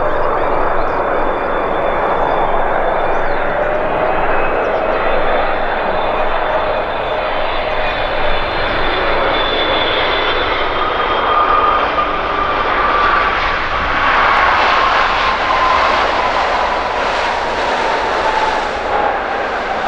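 Boeing 777-300ER's GE90 turbofan engines running on a landing pass: a steady jet roar with a high whine that falls slowly in pitch through the second half as the airliner goes by.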